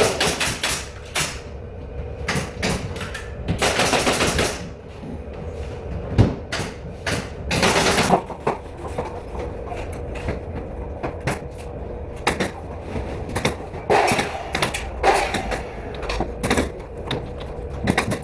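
Carpentry work on a building site: a run of sharp knocks and clacks at uneven intervals, with two longer bursts of noise about four and eight seconds in.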